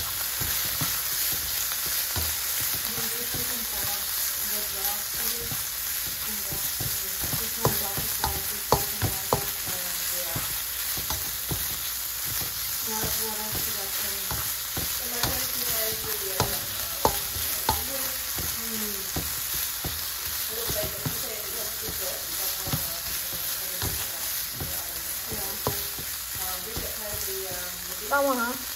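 Shrimp, pork belly and onion frying and sizzling in a nonstick pan while being stirred with a plastic spatula, which scrapes the pan and gives irregular sharper taps.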